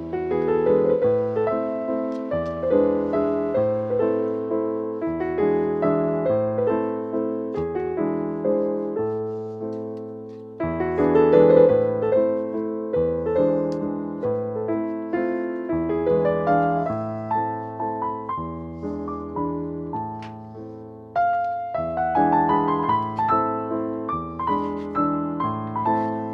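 Background music: a piano piece with a steady bass line and melody, with new phrases entering at about 11 and 21 seconds in.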